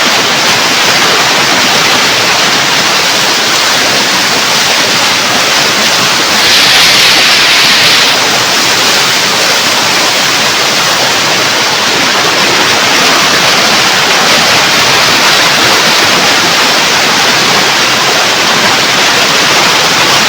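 Waterfall pouring down from high on the hillside: a loud, steady rush of falling water, briefly louder about six or seven seconds in.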